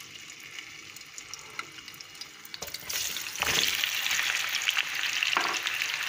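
Round raw potato slices going into hot oil in a pan and sizzling; the sizzle swells sharply about three seconds in as the bulk of the slices slides in, with a few sharp ticks and crackles.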